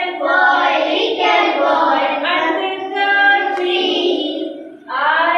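A high voice singing the English children's rhyme about a little bird and a bird house, with held notes and a short pause near the end.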